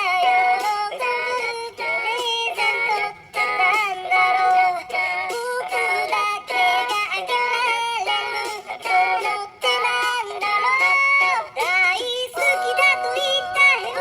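A pop ballad melody sung in pitch-shifted cat meows, a synthetic cat-voice cover. It runs in short sung phrases with brief gaps and little bass underneath.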